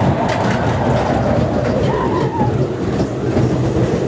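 Small family roller coaster train running along its track with a steady rumble and a few clicks, and a brief wavering squeal about halfway through.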